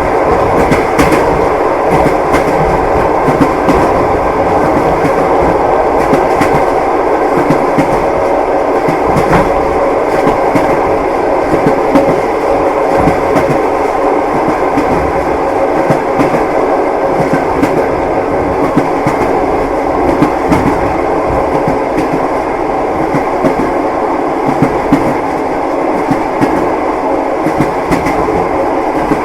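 Passenger train running steadily: a continuous rumble of the carriage with the wheels clacking over the rail joints, heard from inside the compartment.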